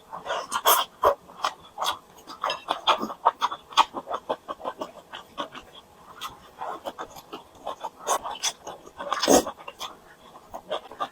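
Close-miked eating: chewing and smacking of food in quick, irregular wet bites and mouth sounds, with a louder burst about nine seconds in.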